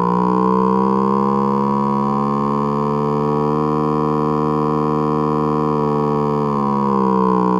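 Simulated engine sound of a parallel twin with 90-degree crankpins, firing at uneven intervals: one cylinder fires, the other 90 degrees later, then a 630-degree gap. It revs up in pitch over the first few seconds, holds steady, then falls back near the end.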